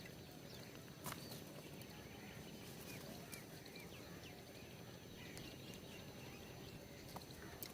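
Small birds chirping faintly at a feeder, scattered short calls over a low outdoor rumble, with a few sharp clicks, the first about a second in.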